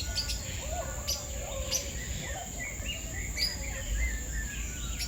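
Many birds calling together: short sharp chirps mixed with whistled notes that rise and fall, over a steady high-pitched hiss.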